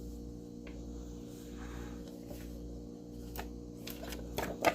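Quiet room tone: a low steady hum with a few faint clicks, and a short sharper sound near the end.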